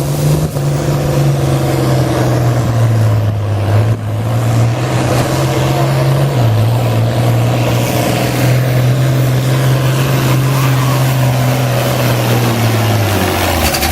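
International 966 pulling tractor's engine running hard under load as it drags the sled down the track. The steady pitch steps down about halfway through and sags near the end, where the tractor runs out of power: "that's all she had".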